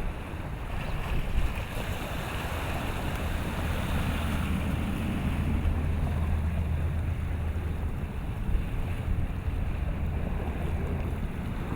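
Wind rumbling on the microphone over a steady wash of sea waves, the rumble heaviest midway.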